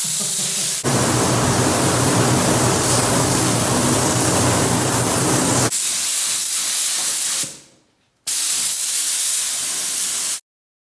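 A loud, steady spraying hiss, with a low hum under it for the first several seconds; it fades out briefly, starts again, then cuts off suddenly.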